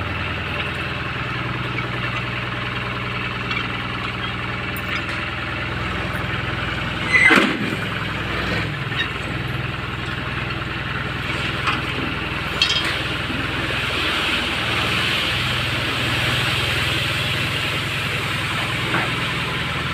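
Captain 280 DX mini tractor's 28 hp engine running steadily, with one loud knock about seven seconds in and a few lighter clicks later.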